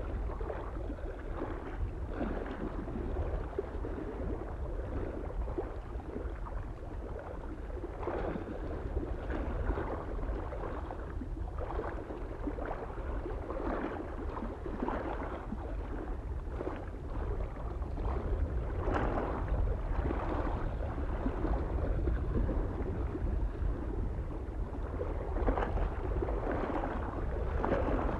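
Small lake waves lapping and splashing irregularly against the shore, a new wash every second or two, over a steady low rumble of wind on the microphone.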